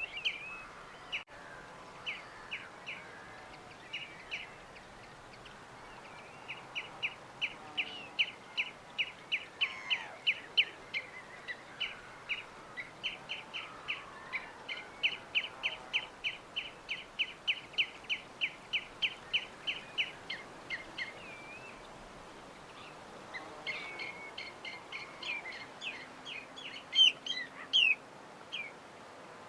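Small bird chirping in long runs of short, quick, high notes, about three a second, with a pause of a couple of seconds before it starts again. A faint steady hiss of background noise lies under it.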